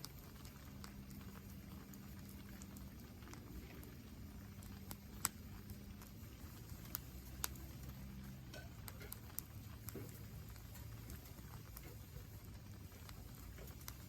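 Wood fire crackling, with scattered sharp pops and snaps, a few louder ones about five and seven seconds in, over a faint low steady hum.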